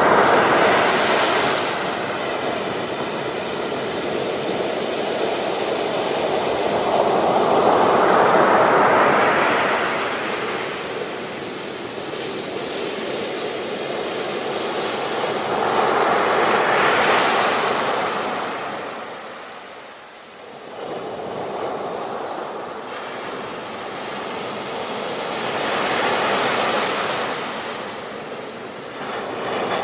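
Ocean waves breaking and washing up a beach, swelling and receding in slow surges several seconds apart, with a brief lull near the middle.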